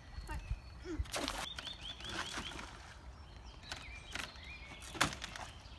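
A small songbird chirping, with a quick run of about six short high notes and then a few more, over the faint trickle of a shallow creek. Two sharp knocks cut in, about a second in and a louder one near the end.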